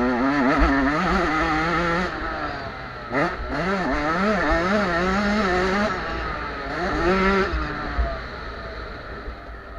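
Small 50–85 cc two-stroke motocross bike engines racing, revving up and down rapidly as the throttle is worked, the pitch rising and falling about twice a second.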